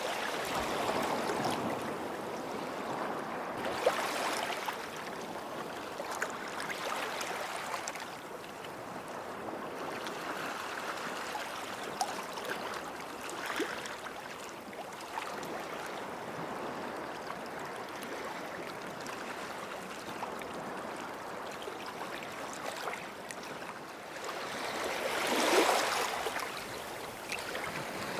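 Small sea waves lapping and washing at the water's edge, a steady wash that swells and recedes, with the biggest wave breaking about 25 seconds in.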